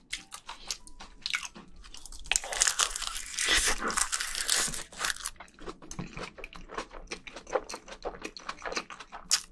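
Close-miked eating sounds: a big mouthful of rice mixed with spicy seasoned raw crab, wrapped in a sheet of laver, taken in and chewed, with many small wet clicks and crunches. The crunching is busiest just as the mouthful goes in, about a third of the way through.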